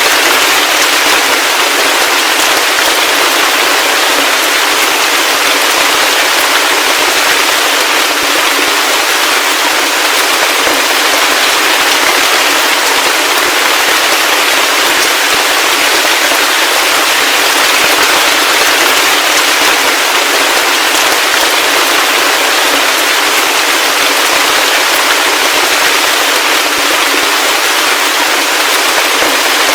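Heavy rain falling steadily: a dense, even hiss of drops with fine crackling patter and little low rumble.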